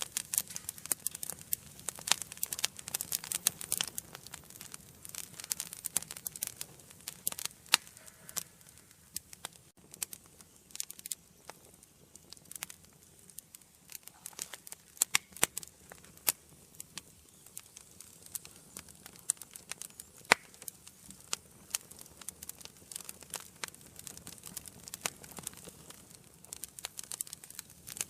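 Wood fire burning in a fireplace, crackling with irregular sharp pops and snaps over a soft hiss of flame. The crackling is busier in the first few seconds and again around the middle.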